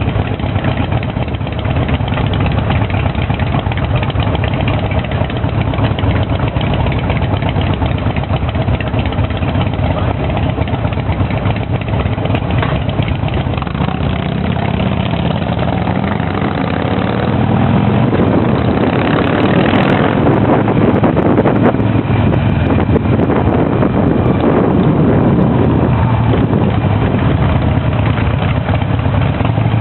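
Motorcycle engine running steadily, getting a little louder about eighteen seconds in.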